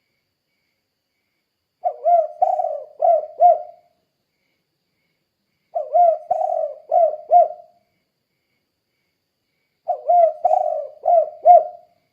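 Spotted dove (tekukur) cooing in its 'kuk 2' song. Three phrases of about five notes each, roughly two seconds long and about four seconds apart.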